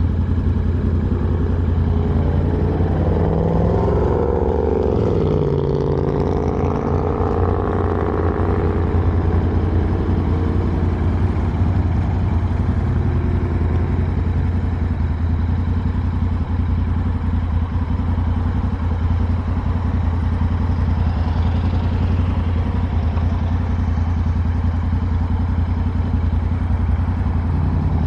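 Motorcycle engine running steadily under way, a low even pulsing drone, with a whine that rises and then falls a few seconds in.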